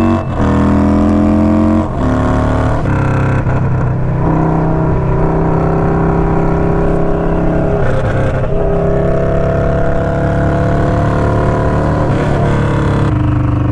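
Indian Scout Sixty's V-twin through a Hacker Mayhem 2-into-1 exhaust, accelerating and shifting up: the pitch climbs and drops at each shift near the start, about 2 s and about 4 s in. After that it pulls at a steady, slowly rising pitch.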